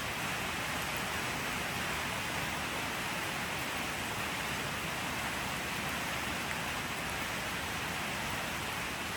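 Steady rain falling, an even hiss of many drops with no single sound standing out.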